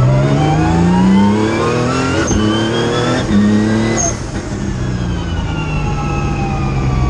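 Race-tuned Nissan March engine heard from inside the cabin, revving up hard through a couple of quick gear changes, then lifting off about four seconds in with the revs falling steadily as the car slows.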